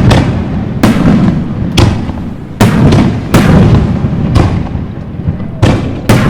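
Aerial fireworks shells bursting in quick succession: about eight sharp booms, each trailing off into a low rumble that runs into the next.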